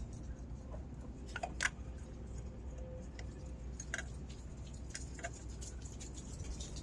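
A few light, scattered clicks and taps as spark plugs and tools are handled in the engine bay, over a steady low hum.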